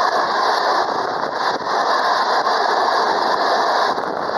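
Freight train of empty container flat wagons rolling past close by: a steady rushing noise of steel wheels on rails, with a few faint knocks.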